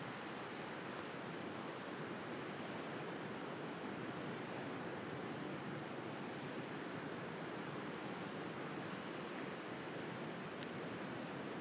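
Steady wash of sea surf with a wood fire crackling faintly over it, and one sharper pop from the fire near the end.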